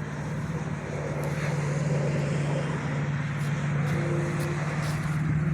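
An engine running steadily, a constant low hum over a rushing noise that grows slightly louder after about a second.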